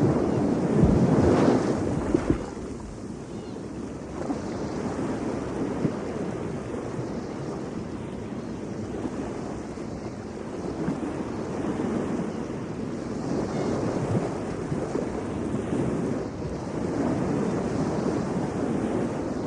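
Ocean surf breaking and washing ashore, with wind buffeting the microphone. A loud wave crashes near the start, then the wash eases and swells again twice.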